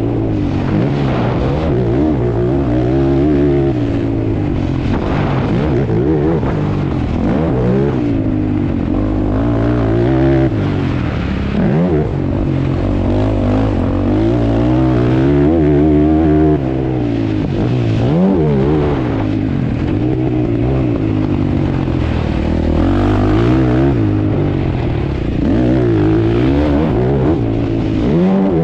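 ATV engine revving up and down over and over as the throttle is opened and closed, with short sharp drops in pitch twice.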